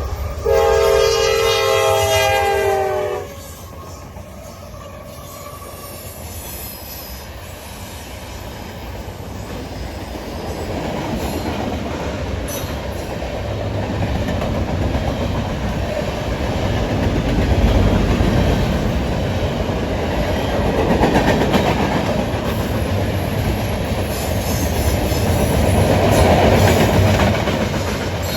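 Locomotive air horn sounds a long blast of about three seconds, a chord of several notes, then the train's rumble and wheel clatter on the rails grow louder as it passes.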